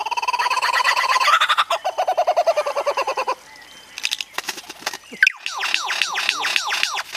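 A mimicking bird calling in a fast, pulsed cackle imitating a kuntilanak's laugh for about three seconds, then, after a short pause with a few clicks, a quick run of repeated downward-sliding chirps.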